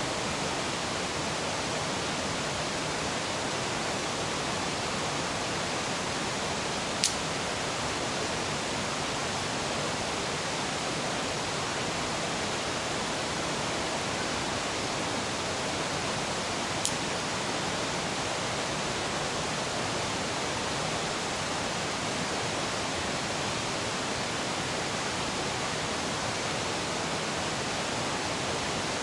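A river rushing steadily as an even hiss, with two sharp pops from the campfire about ten seconds apart.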